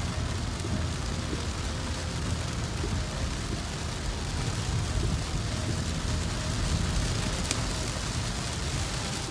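Heavy rain falling on a car's roof and windshield, heard from inside the moving car over a steady low rumble of the car on the wet road.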